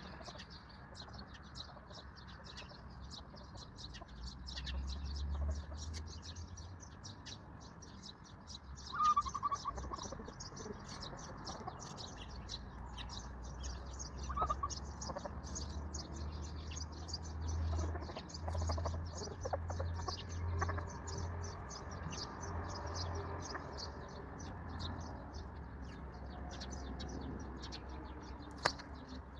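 Many small birds chirping in rapid, continuous chatter, with a few louder calls standing out about nine and fourteen seconds in.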